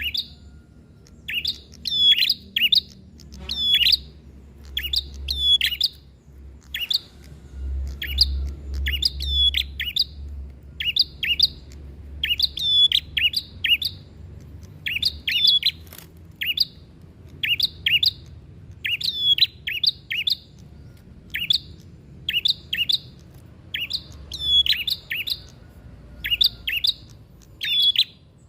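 Prinia (prenjak) singing its loud, excited fighting song: short phrases of rapid, high chirping notes repeated about once or twice a second, over a faint low rumble.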